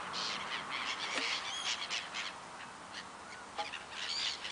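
Birds calling over open water in a run of short calls, some sliding up and down in pitch.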